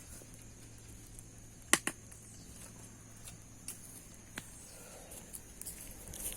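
Campfire crackling: a few sharp, scattered pops, the loudest a close pair about two seconds in.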